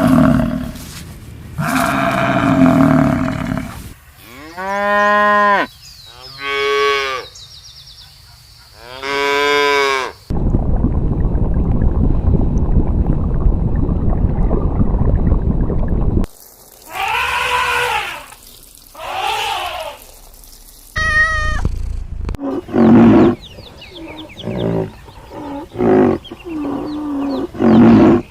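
A series of farm-animal calls, cattle mooing among them, each call rising and falling in pitch. About ten seconds in, the calls give way to some six seconds of steady noise, and a quick run of short calls follows near the end.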